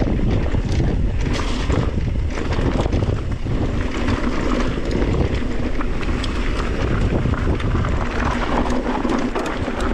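Mountain bike riding down a dirt trail: heavy wind buffeting on the action camera's microphone over tyre rumble, with frequent small clicks and rattles from the bike over rough ground.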